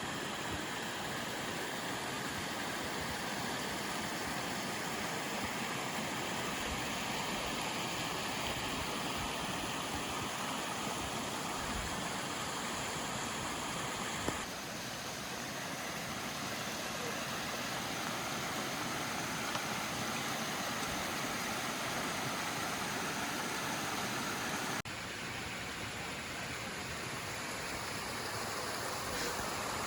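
Steady rush of a mountain stream flowing over rocks, changing slightly in tone twice.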